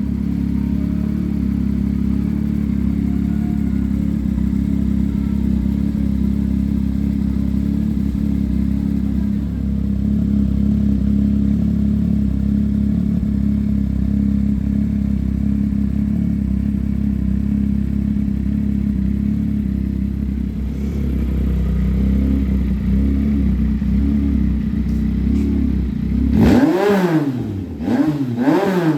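2022 Yamaha XSR900's three-cylinder engine running through a full aftermarket exhaust, Borris headers with an Orion muffler, idling steadily. Near the end the throttle is blipped three times in quick succession, each rev rising and dropping back.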